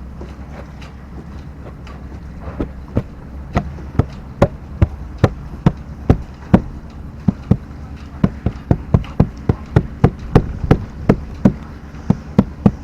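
A quick, irregular series of sharp knocks, about two to three a second, starting a couple of seconds in, as the new porthole frame is knocked home into its Sikaflex-bedded cutout in the steel hull. A steady low hum runs underneath.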